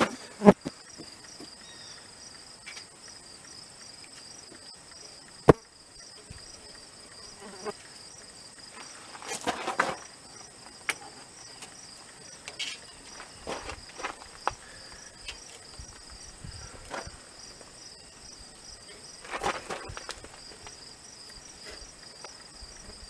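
Crickets chirping steadily in a fast, even pulse, with scattered sharp knocks and short scraping or rustling sounds from hands at work; the loudest are two sharp knocks, about half a second and five and a half seconds in.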